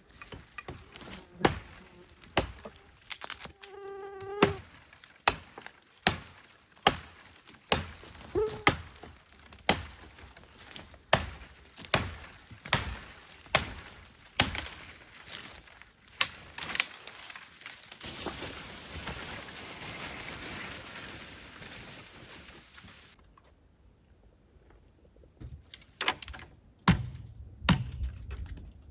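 A series of sharp, irregular knocks and taps, roughly one a second, with a short pitched sound near the start and a few seconds of steady hiss past the middle.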